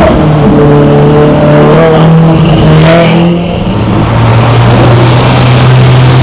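Loud, close performance car engine running at a steady raised rev, then dropping to a lower steady note about three and a half seconds in, with a short rasp just before the drop.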